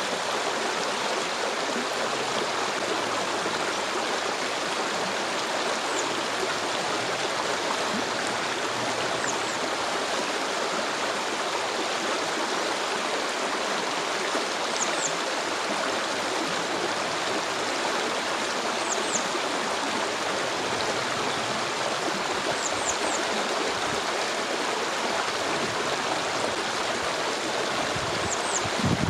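Flowing stream water, a steady rushing sound with no breaks. A short, high double note sounds every four seconds or so over it.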